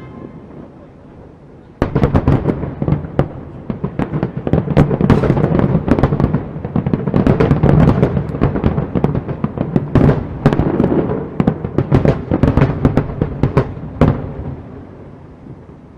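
Fireworks display: a dense barrage of aerial shell bursts and crackling that starts suddenly about two seconds in, ends with a last sharp bang near the end, and then the echoing rumble fades away.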